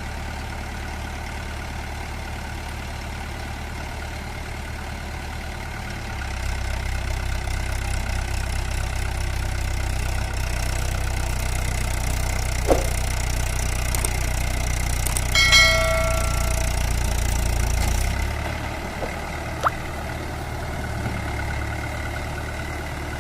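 Tractor diesel engine running with a steady low throb. It gets louder from about six seconds in and eases back to its earlier level near eighteen seconds. Around sixteen seconds a brief ringing, bell-like tone sounds over it.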